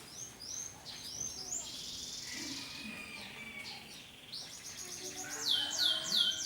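Domestic canaries singing: quick rising and falling chirps and trills, with a run of repeated falling notes, about three a second, near the end.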